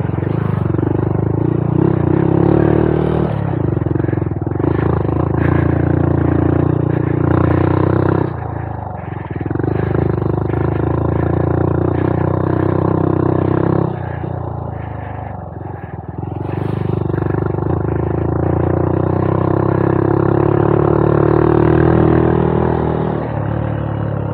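Honda Monkey 125's air-cooled single-cylinder engine running under throttle on a rough trail. It eases off about eight seconds in, and again for a couple of seconds around the middle, then pulls again.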